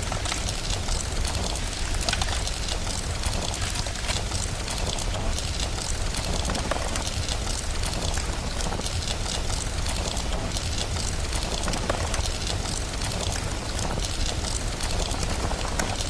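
Steady rain mixed with the fine crackle and pops of a wood fire, over a constant low rumble.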